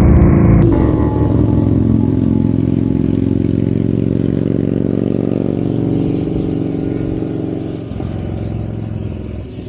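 Motorcycle engine running at a steady speed, fading out over the last couple of seconds.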